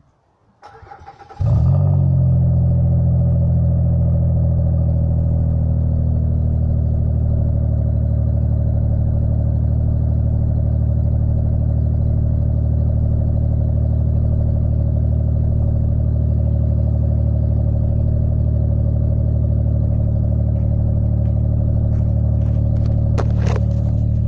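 2004 Mazda 6's V6 engine cranked over and catching about a second and a half in, then idling steadily through an aftermarket eBay exhaust.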